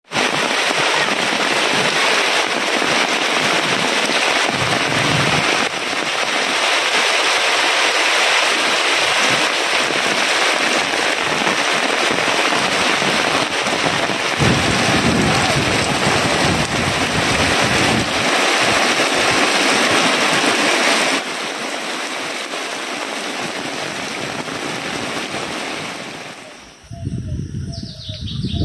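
Heavy rain pouring down in a steady hiss, with a low rumble of thunder about halfway through. Near the end the rain fades out and birds begin to chirp.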